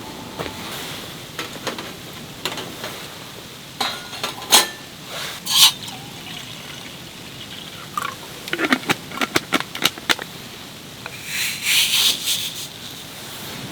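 Camp cooking handling sounds: scattered clicks and knocks of utensils and dishes, then a brief hissing rush of liquid being poured near the end.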